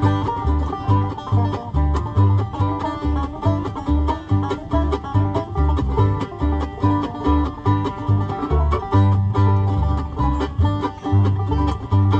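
Acoustic bluegrass band playing an instrumental passage: banjo picking out front over strummed guitar, with a steady low bass beat about twice a second.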